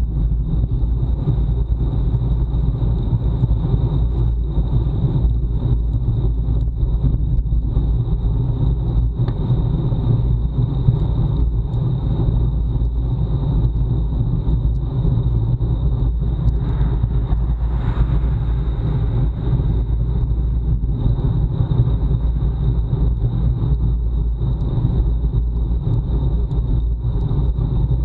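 Wind rushing over a bike-mounted action camera's microphone at time-trial speed, a steady low rumble, with a faint steady high tone running through it.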